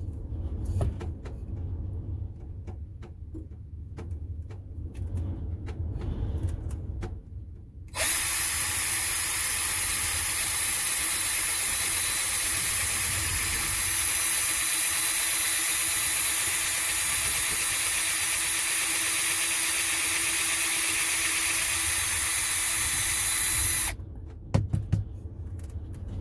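A handheld power tool runs steadily for about sixteen seconds, starting abruptly about eight seconds in and cutting off near the end. Before it, a few light knocks of parts being handled.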